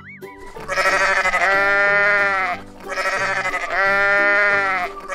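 Sheep bleating: two long, wavering bleats about two seconds each, one after the other. Soft background music plays underneath, and a short wobbling sound-effect tone fades out at the very start.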